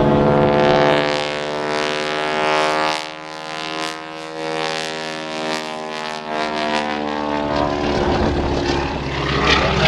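Propeller engine of an aerobatic plane droning as it flies past. The tone dips in level through the middle and grows louder again near the end.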